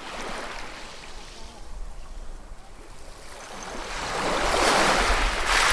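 Sea waves washing and breaking: a low wash, then one wave builds from about three and a half seconds in and breaks loudly near the end.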